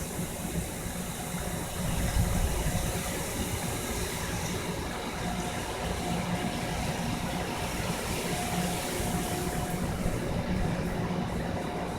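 Hurricane wind and rain: a steady rushing noise with a low rumble underneath.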